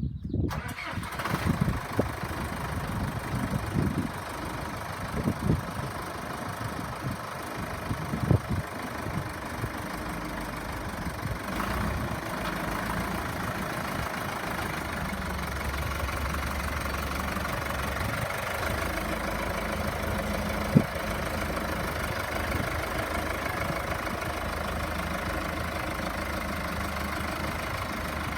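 John Deere 2030 tractor engine running, uneven with loud surges for the first several seconds, then settling into a steady idle. A single sharp knock comes about twenty seconds in.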